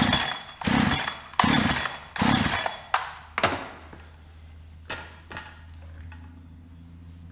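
Holzfforma 372XP chainsaw being pull-started: about five quick pulls on the recoil starter cord in the first three and a half seconds, the engine turning over without catching. This is the saw failing to start. The pulls then stop, leaving a couple of clicks and a faint low hum.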